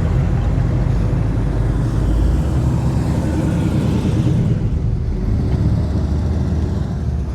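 Car engines running low and steady as show cars roll slowly past in a line, their pitch shifting about two and a half seconds in.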